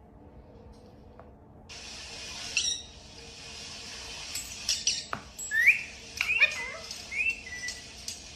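Parrot chirping and whistling: a run of short rising-and-falling whistled calls in the second half, over a steady background hiss.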